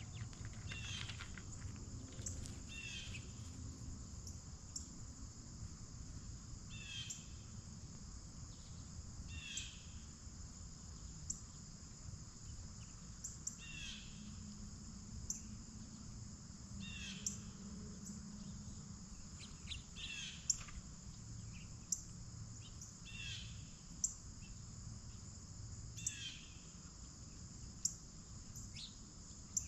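Steady high-pitched chorus of late-summer insects such as crickets, with a short falling chirp repeated every two to three seconds and a few sharp ticks.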